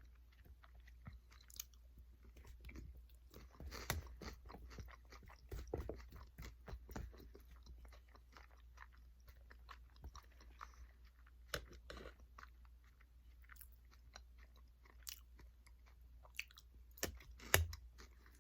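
Close-up chewing and crunching of food, with irregular crisp crunches and wet mouth clicks and a few louder bites.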